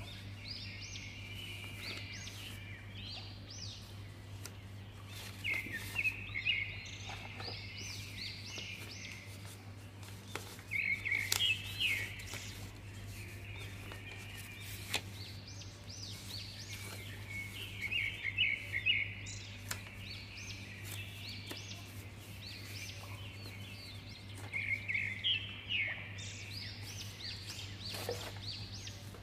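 Birds chirping in recurring bursts of quick twittering trills, with a steady low hum underneath and faint paper rustling as printed papers are handled.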